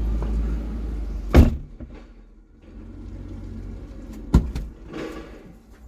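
A vehicle's engine rumbles low and fades, with a loud door-like slam about a second and a half in and another sharp bang around four seconds in, followed by a brief scraping rustle.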